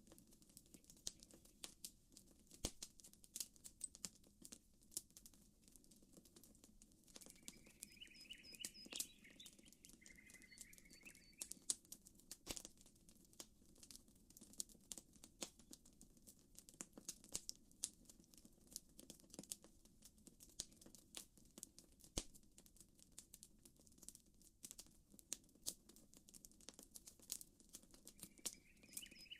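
Quiet campfire crackling, with frequent sharp pops and snaps of burning wood over a low, steady background hiss. A small bird sings a short warbling phrase twice about seven seconds in, and again near the end.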